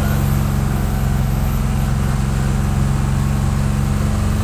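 Truck engine running steadily, a continuous low drone with no change in pitch.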